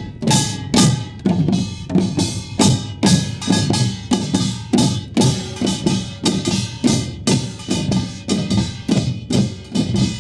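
Korean pungmul percussion ensemble playing: kkwaenggwari small gongs clanging, buk barrel drums and gong ringing together in a fast, steady beat.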